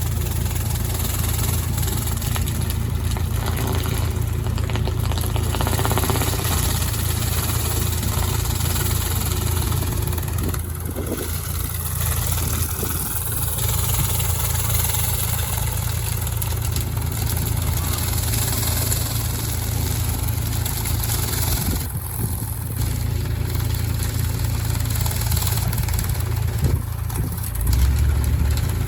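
Pressure washer running steadily, its engine humming under the hiss of the high-pressure water spray. The hiss drops back briefly a few times.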